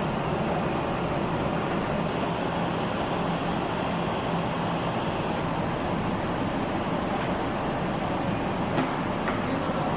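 Steady noise of factory machinery running, with a faint hum and a brief click near the end.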